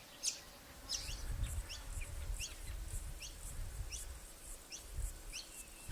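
Cockatiels calling: a faint, even run of short rising chirps, about two a second, over a low rumble.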